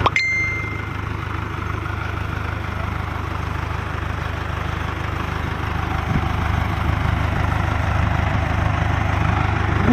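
Diesel engine of a conventional exploration core-drilling rig running steadily with a low drone. A click and a brief high-pitched tone come right at the start.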